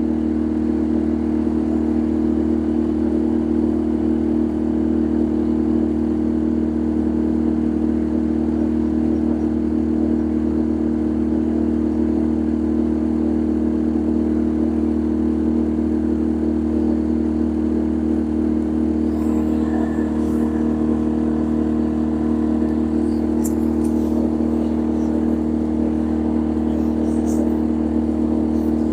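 A boat's engine running steadily on board, an unbroken low hum with no change in pitch, with a few faint ticks near the end.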